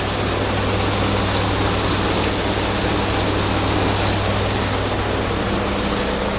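A truck engine running steadily, a constant low hum under an even rushing noise.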